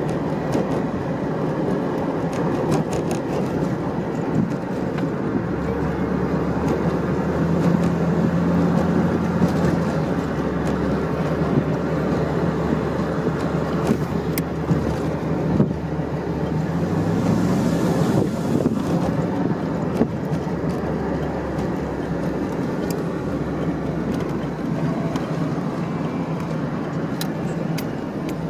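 KITT replica car driving, heard from inside the open-topped cabin with the T-tops off: a steady engine drone under road and wind noise. The engine note changes a couple of times as speed changes.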